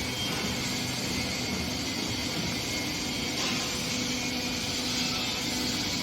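Three-roll section bending machine running steadily: an even mechanical hum with a faint hiss.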